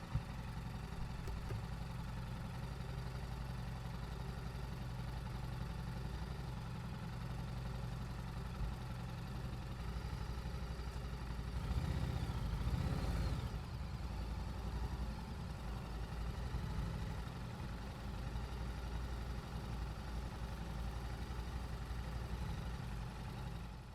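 Yamaha YZF-R7's 689 cc parallel-twin engine running steadily at idle or low speed through its stock exhaust, with a brief swell that rises and falls in pitch about halfway through.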